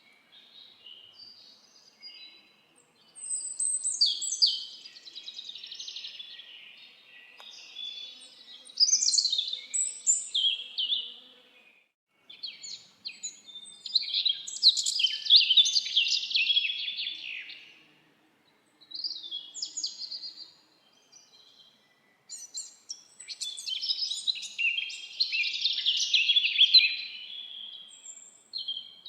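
Songbirds singing in a forest: bursts of fast, high chirping and warbling phrases several seconds long, broken by short pauses.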